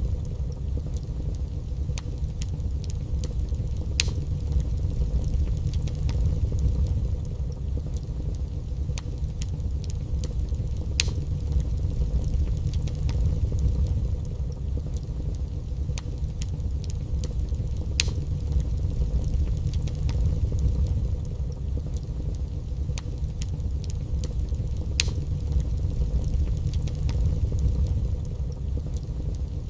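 Wood fire burning in a fireplace: a steady low rumble of flames with occasional sharp crackles and pops.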